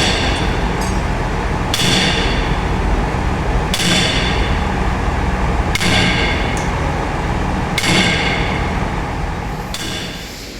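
A hammer striking metal six times, evenly about two seconds apart, each blow ringing briefly, over an engine running steadily underneath.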